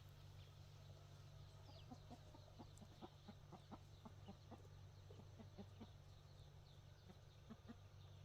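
Near silence: a faint steady low hum, with a scatter of soft, short taps or clucks from about two seconds in.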